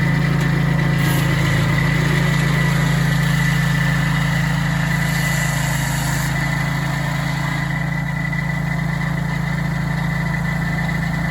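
Sawmill running steadily, its engine and saw cutting through a large cottonwood log to trim the top slab off, with a steady high whine over the engine.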